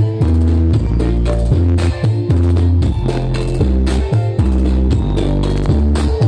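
Loud music with a heavy, prominent bass line played through a horeg sound system. The bass notes change about every half second over a steady beat.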